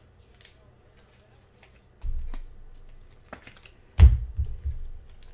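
Trading cards being handled and flipped through, with faint clicks, a low knock about two seconds in and a sharper, louder knock about four seconds in.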